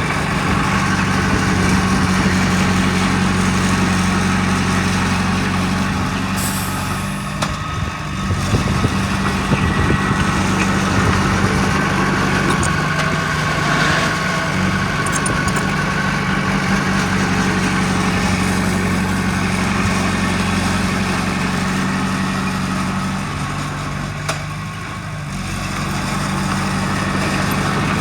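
Heavy diesel earthmoving machinery running steadily with a deep engine hum, easing briefly twice.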